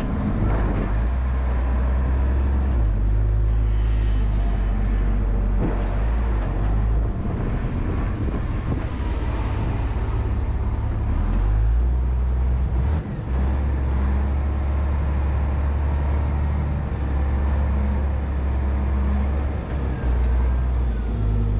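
Volvo A25G articulated haul truck's diesel engine running as the truck works, a steady low drone whose pitch steps to a new level a few times, around three, seven and thirteen seconds in.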